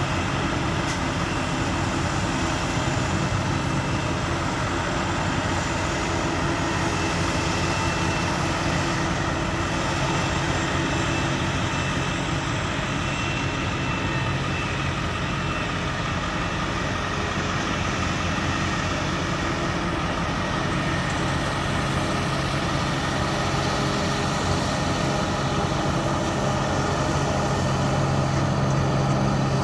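Heavy farm machinery engine running steadily during corn silage harvesting, a continuous drone that grows slightly louder near the end.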